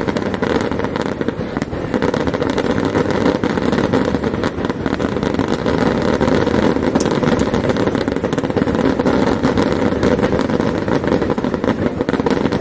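Fireworks going off in a dense, continuous barrage: many rapid sharp cracks and bangs over a steady rumble.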